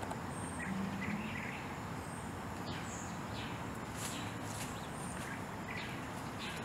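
Steady outdoor background noise with scattered short bird chirps and brief whistles throughout.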